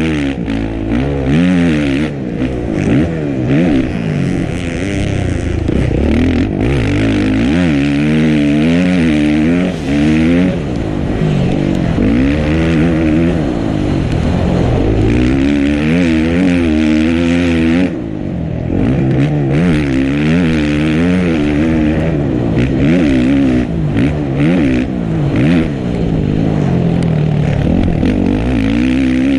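Dirt bike engine being ridden hard, revving up and dropping back over and over as the rider works the throttle.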